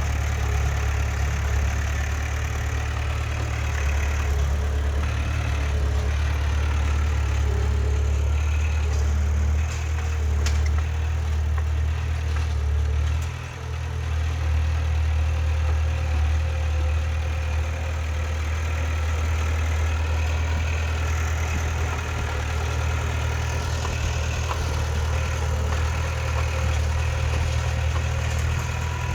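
Diesel engine of heavy earthmoving machinery running steadily with a deep drone, easing off briefly about halfway through.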